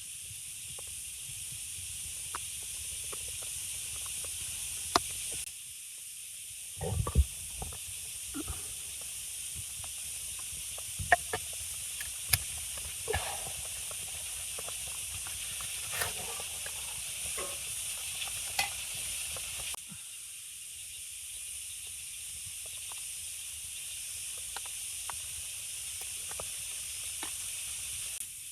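A steady hiss with scattered sharp clicks and knocks, and a few low thuds about seven seconds in.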